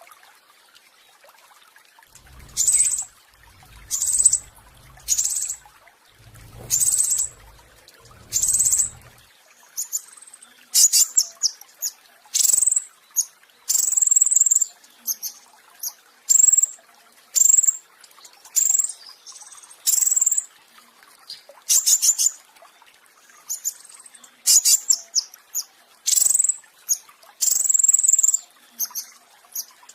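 Petis raja songbird singing 'roll tembak': sharp, high-pitched bursts of rapid notes, first spaced about a second apart, then coming faster and running together from about a third of the way in. A low rumble sits under the first few bursts.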